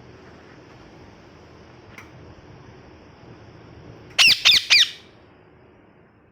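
Ringneck parrot giving three quick, harsh squawks in a row a little over four seconds in, each falling in pitch. Before them there is only faint hiss and a small click.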